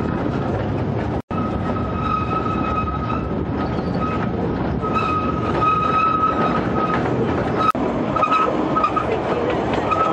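Narrow-gauge Kurobe Gorge Railway trolley train running, heard from an open-sided passenger car: a steady rumble and rattle of wheels on the rails, with a high wheel squeal that comes and goes from about two seconds in. The sound breaks off for an instant about a second in.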